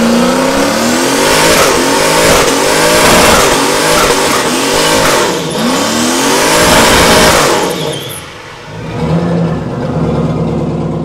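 Turbocharged 5.3-litre LS V8 in a 1968 Pontiac GTO revving hard, rising and falling over and over, while the rear tyres spin in a burnout. The noise drops about eight seconds in and gives way to a steadier note.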